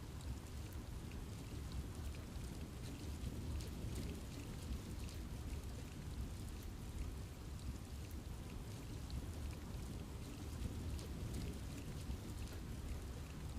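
Steady rain falling on forest trees: a constant patter of many small drop ticks over a low, even rumble.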